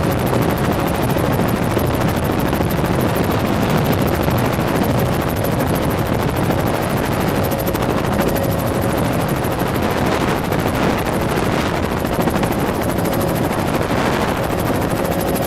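Helicopter in flight, its rotor and engine running steadily with a fast, even pulsing.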